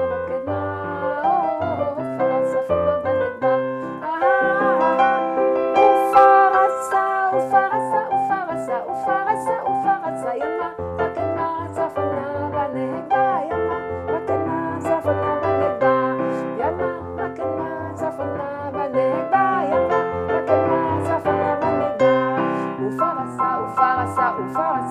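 Electric keyboard playing a nigun, a wordless Hasidic melody, over chords and a bass line that moves in steps.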